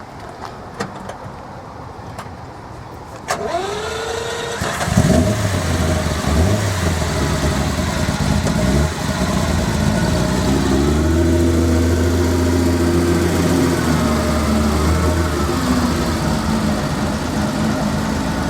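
A car engine being started: a few faint clicks, then the starter whines for about a second before the engine catches with a loud burst and a short rev, then settles into a steady fast idle that eases slightly near the end.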